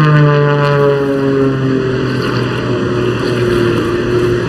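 Pitts Special aerobatic biplane's Lycoming O-540 piston engine and propeller flying past. The engine note falls in pitch over the first couple of seconds as it goes by, then holds a steadier, lower drone.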